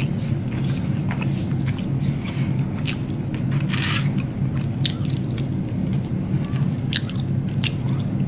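Close-up mouth sounds of someone biting and chewing a Korean cheese dog: scattered short crunches and smacks, with one larger crunch about four seconds in, over a steady low hum.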